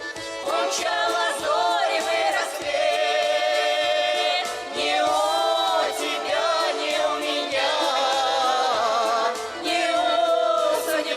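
Several voices singing a Russian folk song together, with vibrato, over a steady accordion-like accompaniment, most likely a garmon.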